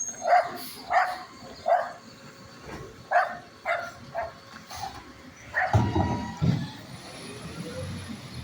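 A dog barking repeatedly, one bark about every half second, for the first six seconds. A garbage truck's low rumble swells up about six seconds in.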